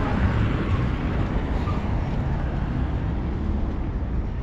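Steady road traffic noise, an even rumble with no distinct single event standing out.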